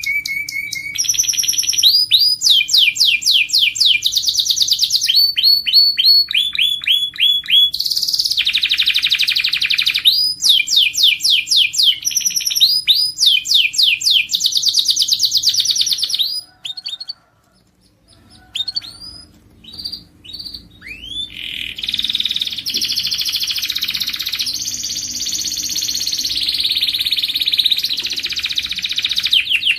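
Domestic canary singing: fast trills of rapidly repeated high notes, one rolling phrase after another. The song breaks off briefly a little past halfway, restarts with a few scattered notes, then runs on densely.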